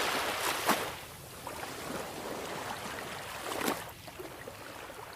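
Sea waves washing on a shore: a wave's wash fades over the first second into a lower, steady rush of water, with a brief louder splash about three and a half seconds in.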